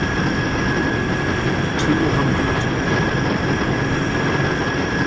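A C-130 Hercules running steadily: an even rumbling noise with a high, steady whine through it.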